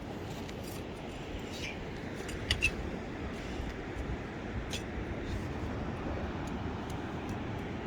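Steady low rush of sea surf and wind on the beach, with a few sharp clicks on top, the loudest a quick pair about two and a half seconds in.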